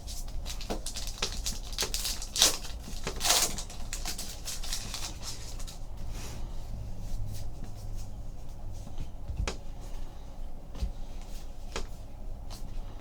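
Trading cards being handled and flipped through by hand: a run of light clicks and rustles, with a couple of louder crinkling bursts about two to three and a half seconds in.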